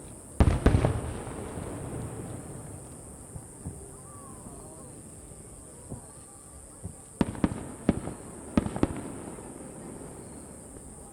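Aerial fireworks shells bursting: a close cluster of loud booms about half a second in, then a quieter stretch, then another volley of sharp bangs around seven to nine seconds in.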